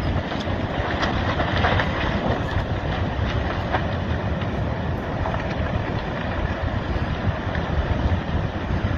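Steady rushing, rumbling noise of a large landslide, with scattered sharp cracks and wind buffeting the microphone.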